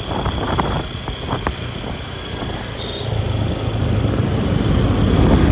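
Motor vehicle on the move, its engine and road rumble growing louder about halfway through, with a few knocks in the first second and a half.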